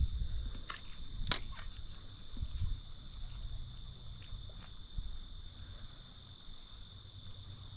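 Steady, high-pitched chorus of insects, two constant trilling tones, with a low rumble underneath and one sharp click about a second in.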